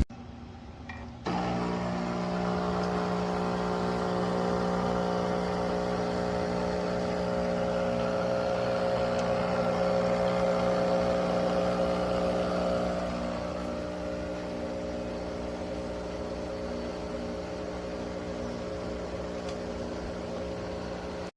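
Nescafé Dolce Gusto Genio 2 capsule coffee machine's pump buzzing steadily as it pushes water through a capsule to brew. It starts suddenly about a second in and drops a little in loudness about two-thirds of the way through.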